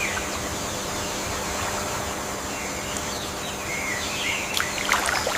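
Outdoor ambience: several short bird chirps over a steady hiss of background noise, with a few sharp knocks near the end.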